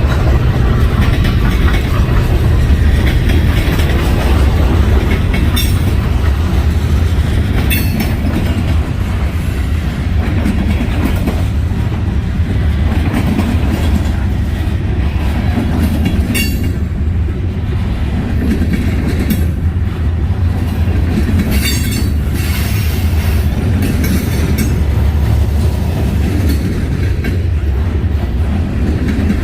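Freight train cars rolling past, with steady wheel-on-rail rumble and clatter. Short wheel squeals or flange screeches come several times.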